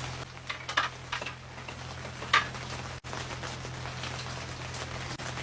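Light rain pattering steadily, with a handful of short sharp ticks, mostly in the first half, and a steady low hum underneath.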